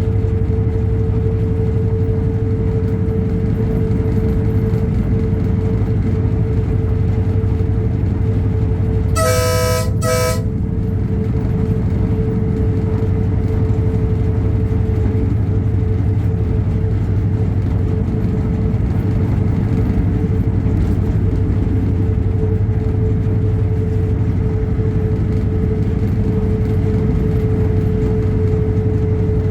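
Diesel train running steadily with a low engine drone and a constant hum, and about nine seconds in two short toots of the locomotive horn in quick succession.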